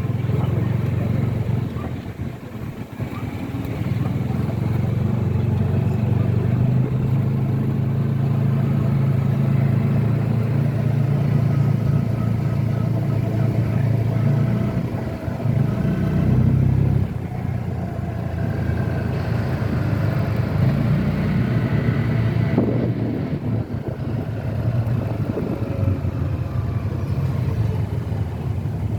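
A motor vehicle engine running steadily with a low hum. It shifts briefly about halfway through, then carries on.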